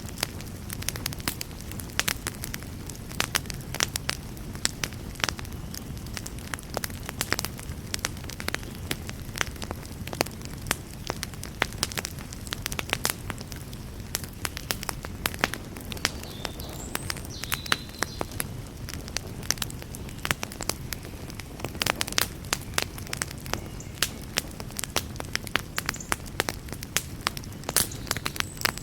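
Wood fire burning in a fireplace: frequent, irregular sharp pops and crackles over a steady low rumble of the flames.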